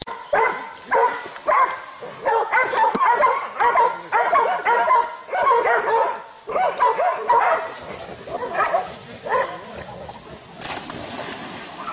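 Dog barking repeatedly while it faces off with a wild boar, about two barks a second, the barks thinning out near the end.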